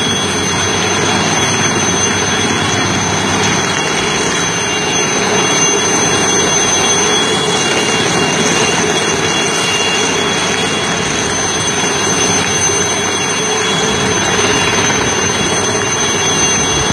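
Steady, loud engine drone with no break.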